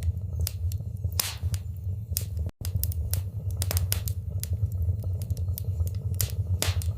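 Fire crackling in a fireplace: irregular sharp pops and snaps, a few louder ones, over a steady low rumble of burning. The sound cuts out for a split second about two and a half seconds in.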